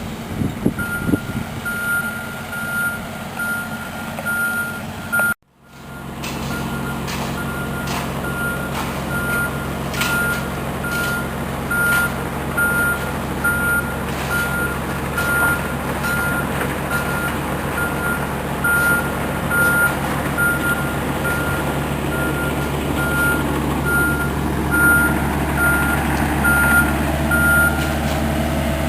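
Backup alarm of a heavy construction vehicle beeping steadily about once a second while it reverses, over its running diesel engine. The beeping stops shortly before the end, and the sound cuts out briefly about five seconds in.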